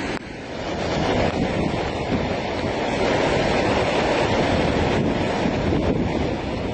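Steady roar of rushing floodwater, with wind buffeting the microphone.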